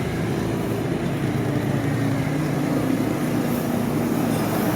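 Roadside traffic: a heavy vehicle's engine running steadily over road noise, its note rising a little near the end.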